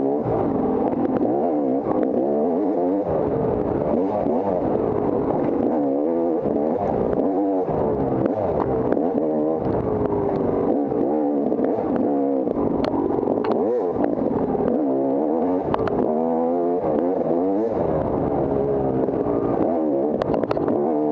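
Off-road dirt bike engine ridden hard, revving up and falling off again and again, its pitch rising and dropping about once a second, with a few sharp clicks and clatter along the way.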